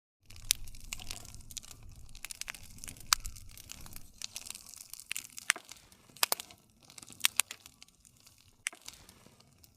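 Wood fire crackling, with irregular sharp pops over a low rumble of burning. It starts suddenly just after the start, and the pops grow sparser and the rumble drops away near the end.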